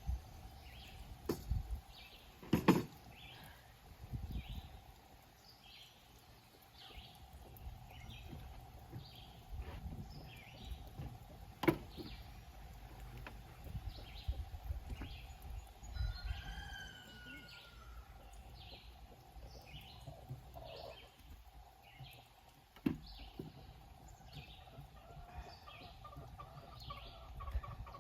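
Outdoor ambience with a bird chirping over and over, about once a second, and a few sharp knocks.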